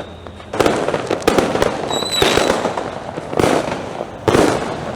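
Many firecrackers and fireworks going off close by. A dense run of loud bangs over continuous crackling, with a brief high whistle about two seconds in.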